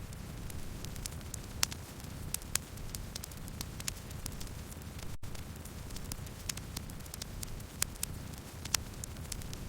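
Wood fire burning: a low steady rumble with irregular sharp crackles and pops, a few of them louder. There is a split-second dropout about halfway through.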